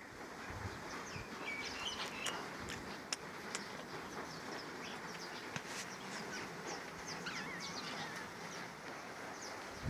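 Small birds chirping: many short, high chirps with a warbling call about seven seconds in, over a steady outdoor hiss.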